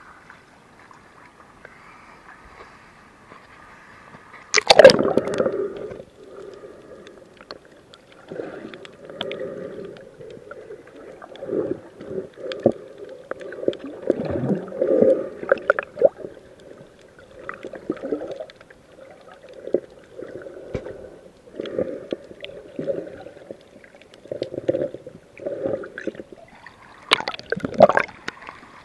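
Water gurgling and sloshing around a submerged camera, muffled, swelling every second or two, with a loud splash about four and a half seconds in and another near the end.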